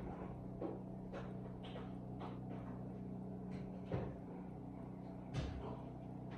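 A steady low hum with scattered light clicks and knocks, two of them louder, about four and five and a half seconds in.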